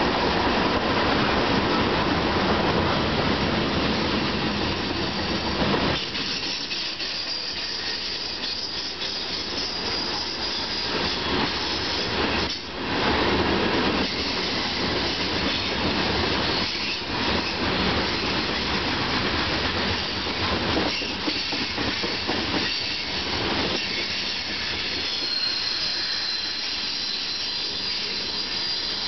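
Freight train rolling past at speed, steel wheels rumbling and clattering over the rail joints: louder empty container flatcars give way to tank cars about six seconds in. A faint high wheel squeal comes and goes, around ten seconds in and again near the end.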